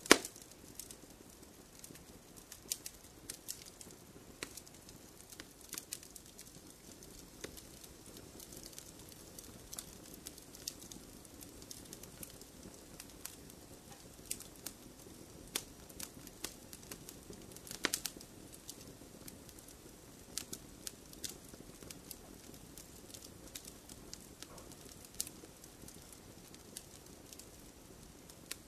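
Wood fire crackling in a fireplace: irregular sharp pops and snaps over a low, steady hiss of the flames, with a loud pop at the very start and another about 18 seconds in.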